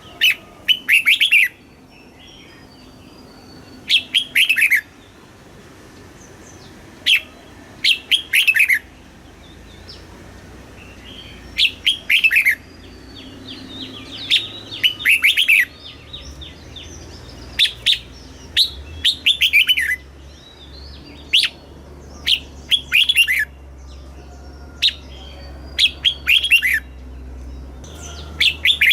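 Red-whiskered bulbul singing: short, bright phrases of quick notes sweeping up and down, repeated every second or two.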